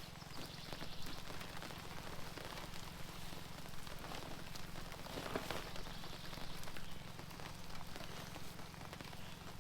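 Steady rain falling, heard as a continuous hiss with many small drop impacts, a little heavier about five seconds in.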